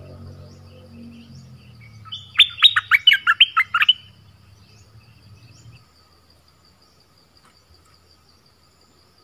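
A bird of the kind called nok dok taeng in Thai, in a trap cage, gives a loud, rapid string of about eight sharp notes, each dropping in pitch, lasting under two seconds about two seconds in. Faint high chirps from other birds repeat throughout.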